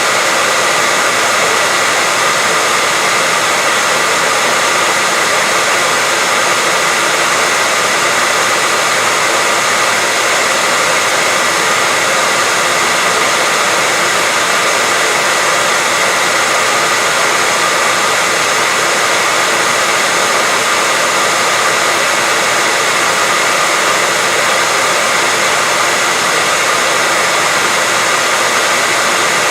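Steady white noise: an even, unchanging hiss spread across the whole range from low to high, with no breaks.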